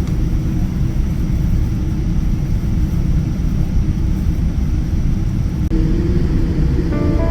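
Steady low rumble of a jet airliner cabin in flight.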